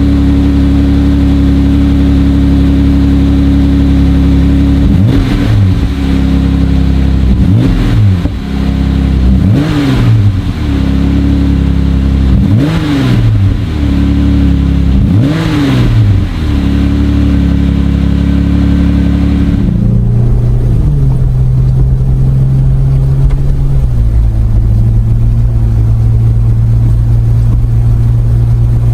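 Jeep Wrangler JL with an aFe Power MACH Force-Xp 3-inch stainless axle-back exhaust, idling and revved five times in quick blips, each rising and falling back to idle. About twenty seconds in it settles into a lower, steady idle.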